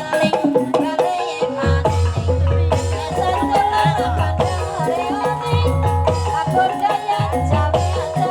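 Banyumasan gamelan music for an ebeg horse dance: struck pitched percussion playing a repeating melody over low drum beats.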